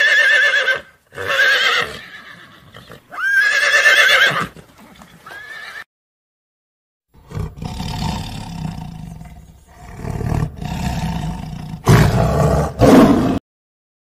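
Horses whinnying, with four quavering neighs over the first six seconds, the last one faint. Then a tiger growls in a low rumble, ending in two loud roars near the end.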